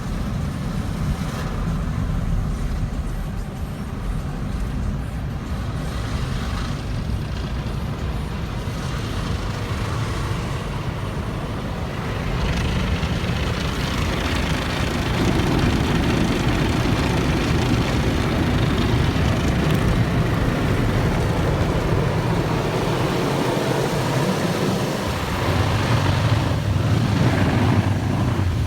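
Automatic car wash running over a car: a steady rush of spraying water and machinery noise, which grows louder about halfway through and deepens into a heavier rumble near the end.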